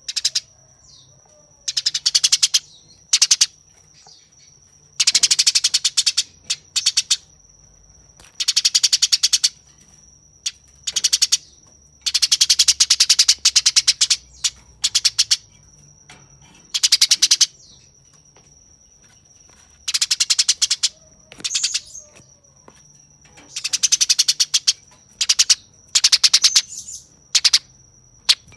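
Eurasian tree sparrow giving harsh, rapid chattering calls in bursts of about a second, each a fast run of high notes, with short pauses between. A steady high thin tone runs underneath.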